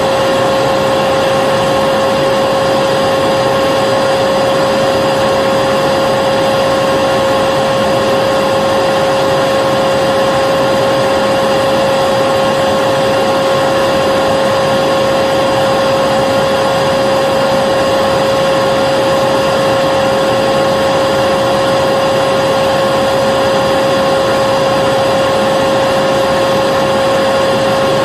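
Vacuum cleaner motor running continuously at a constant speed: a steady whooshing hiss with a high, unchanging whine.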